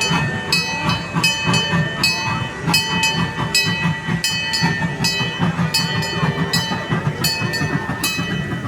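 Miniature train pulling out, a ringing strike repeating two to three times a second, like a locomotive bell, over the low rumble of the train getting under way.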